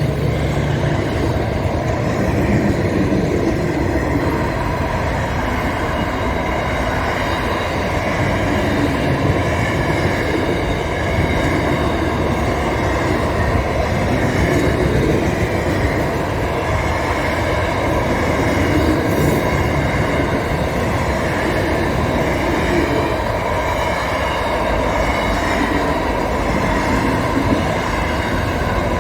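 A train running on rails, a loud, steady rumble of wheels with a few faint steady tones above it that hold throughout.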